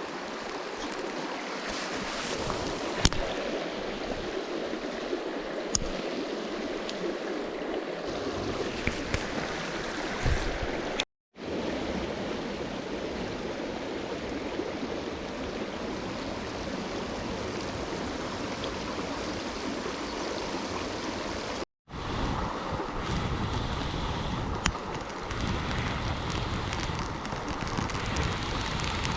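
River water flowing steadily, with a few faint sharp clicks over it. The sound cuts out completely twice for a moment.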